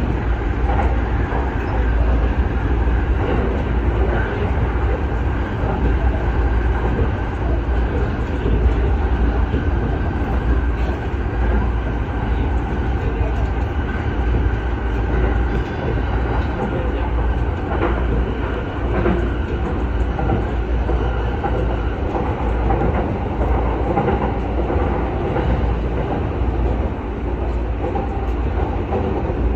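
Electric commuter train running along the line, a steady rumble of wheels on rail, heard from inside the leading car.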